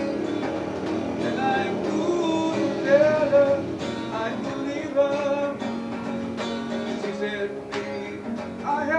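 A man singing a slow song to a strummed acoustic guitar, his voice wavering on held notes.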